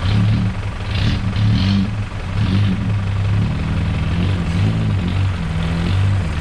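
Four-wheel-drive off-road vehicle's engine running, its pitch rising and falling with the throttle, with a few short hissing sounds about one to two seconds in.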